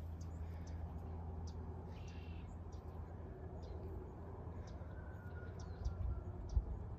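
Faint, scattered short bird chirps over a low steady hum, with a couple of soft thumps about six seconds in.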